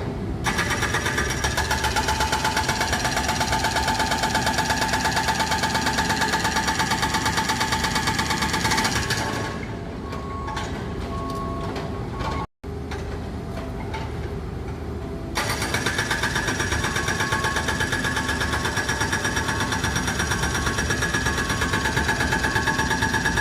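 Excavator-mounted hydraulic breaker hammering rapidly with the excavator's engine running underneath. The hammering stops about nine seconds in, leaving the engine running, and starts again about fifteen seconds in.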